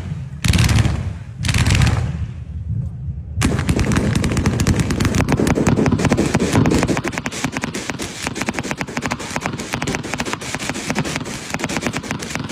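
Fireworks going off: a few separate bangs about a second apart, then, from about three and a half seconds in, a long run of rapid crackling reports like a string of firecrackers.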